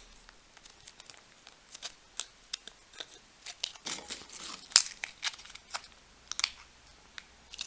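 Plastic MRE ration packaging being handled, crinkling with scattered irregular crackles and one sharper click just before the five-second mark.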